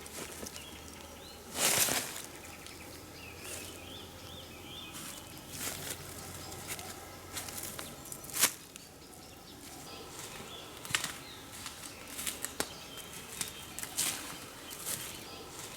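Rustling and crackling in dry forest leaf litter and twigs, with a louder rustle about two seconds in and a sharp twig snap near the middle. Faint birdsong chirps come through behind it.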